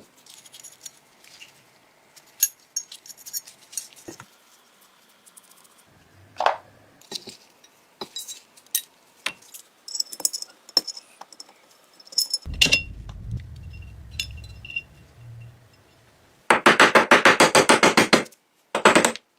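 Small steel pistol parts clicking and clinking as they are handled and set down during disassembly. Near the end comes a loud, fast rattle lasting a couple of seconds, then a short second rattle.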